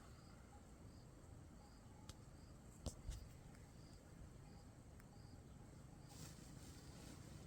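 Faint cricket chirping at an even pace, about one short, high chirp every two-thirds of a second. Two sharp clicks come about three seconds in.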